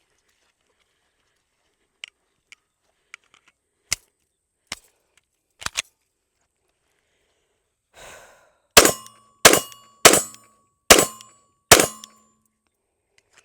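Stoeger STR9MC 9mm pistol fired five times at a steady pace, about two-thirds of a second to a second apart, each shot a sharp crack with a short ringing tail. Before the shots there are a few faint clicks.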